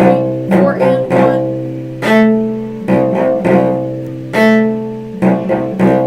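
A cello playing an orchestral cello part slowly. The notes are separate and sharply attacked, each one fading before the next, at about one or two notes a second.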